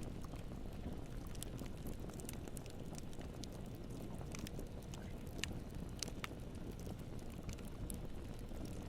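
Campfire burning with a steady low rumble and irregular sharp crackles and pops, several a second.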